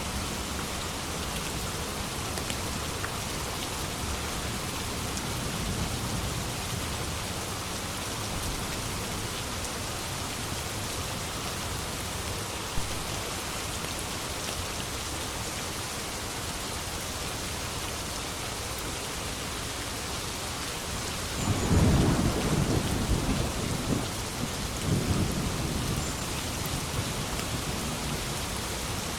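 Steady heavy rain falling, with a roll of thunder breaking in about three quarters of the way through and rumbling on in two swells before fading back under the rain.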